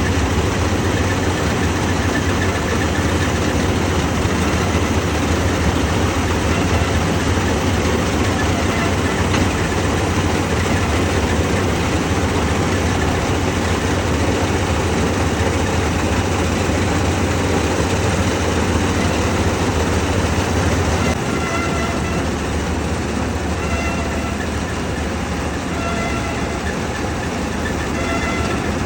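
John Deere harvester working, a steady heavy machine drone with a strong low rumble. About two-thirds of the way through the low rumble drops off and the sound turns lighter, with faint on-and-off whines above it.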